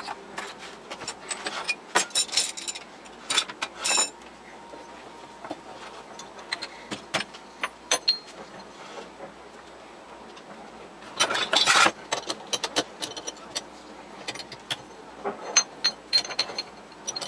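Metal tools and parts being handled in a lathe workshop: irregular clinks, scrapes and small knocks with a ringing metallic edge, in busier clusters a couple of seconds in and again near twelve seconds.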